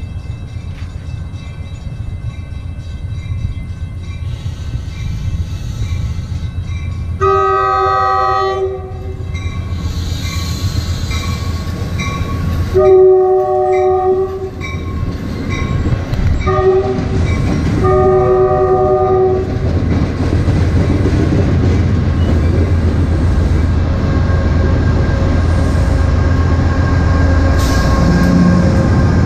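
A Shore Line East commuter train sounds its chord horn four times, long, long, short, long, as it runs into the station. Coaches roll past the platform, and a diesel locomotive rumbles by near the end.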